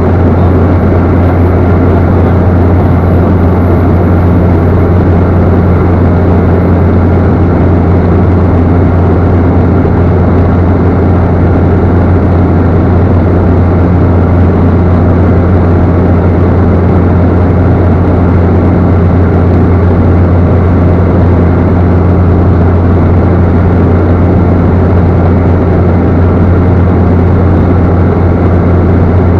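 Cessna 208 Caravan's single turboprop engine and propeller running in a steady low drone, with no change in power.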